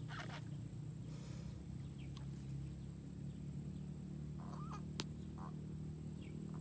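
Scattered short bird calls, about five over a few seconds, over a steady low hum, with a single sharp click about five seconds in.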